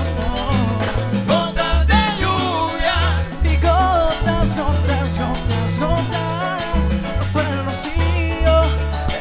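Latin dance band music without lyrics: a repeating bass line, steady percussion and a melodic lead line weaving over them.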